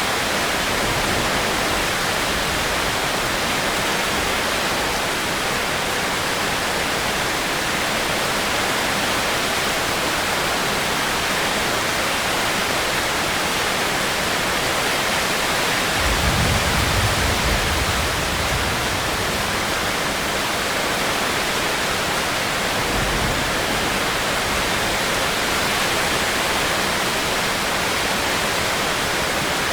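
Steady rainstorm, a constant even hiss of falling rain. A brief low rumble swells about sixteen seconds in, with a fainter one around twenty-three seconds.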